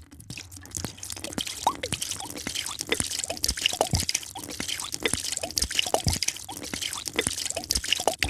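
A drink being poured into a glass: a busy run of small splashes, drips and bubble plops.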